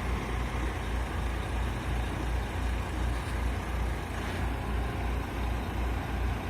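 Old truck's engine idling with a steady low throb, running well after being started from long standing.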